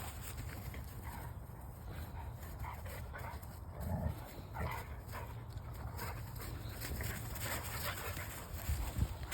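A dog playing, making short whines and yips, with louder scuffling thumps about four seconds in and near the end, over a steady low rumble.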